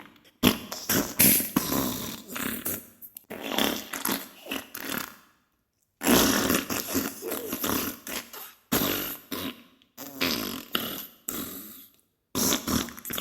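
Diarrhea sound effect: a run of wet farting noises in irregular bursts, broken by two short pauses, one near the middle and one near the end.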